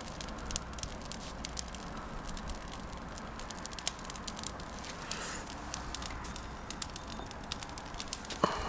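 Wood fire crackling in a washing-machine-drum fire pit: logs burning with irregular sharp pops and snaps over a low steady hiss.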